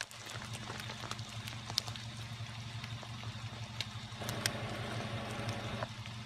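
Rain falling, with scattered sharp drips and taps, over a steady low electrical hum. A soft rushing noise swells for a second or two about two-thirds of the way through.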